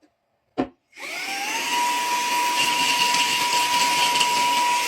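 Mini handheld vacuum cleaner: a click, then its motor starts about a second in, the whine rising and settling into a steady high pitch over a constant rush of air.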